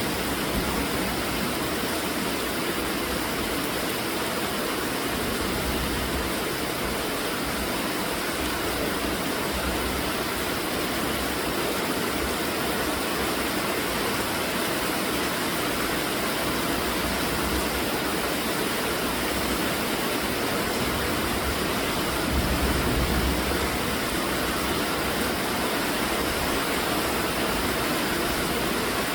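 Steady heavy rainfall, an even unbroken hiss, with a brief low rumble swelling up about three-quarters of the way through.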